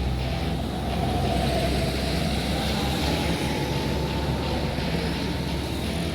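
Heavy truck passing on the road: a steady engine rumble with tyre and road noise.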